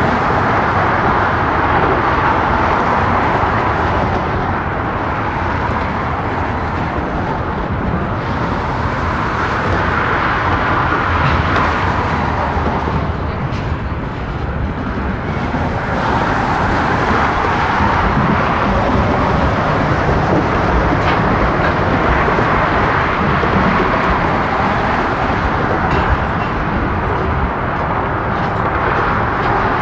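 A freight train rolling past, with a steady rumble and roar of wheels on rail that swells and eases slowly.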